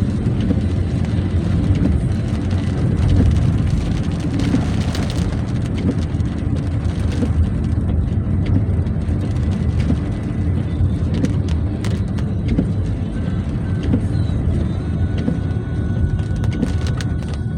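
A car driving on a rain-wet road: a steady low rumble of engine and tyres, with scattered faint ticks.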